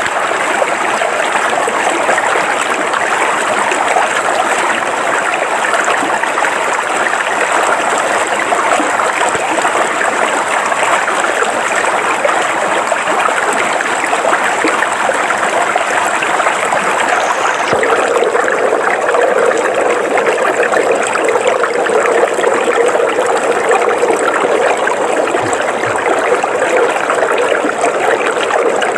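River water flowing steadily over rocks, a continuous rushing and babbling. About eighteen seconds in the flow takes on a slightly deeper, fuller tone.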